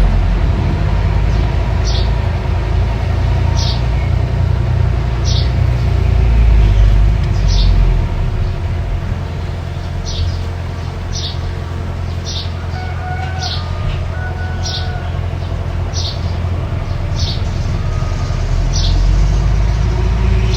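Mini bulldozer's engine running steadily with a deep rumble. A short high chirp repeats about once every second or so.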